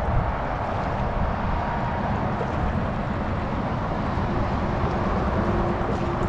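Wind buffeting the microphone with a low, uneven rumble, over the steady rush of a high, flooded creek.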